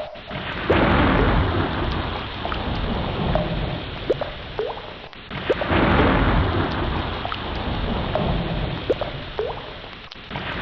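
Sea waves surging in about every five seconds and washing back, with a deep rumble beneath and scattered short rising chirps.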